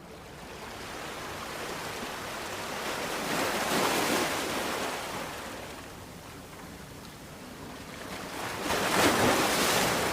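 Ocean waves washing onto a shore, two swells of surf: one about four seconds in and a louder one near the end.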